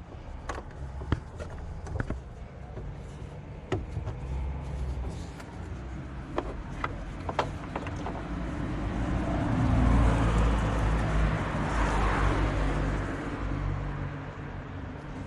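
A few sharp clicks and knocks, then a passing car whose noise swells about ten seconds in and fades away again.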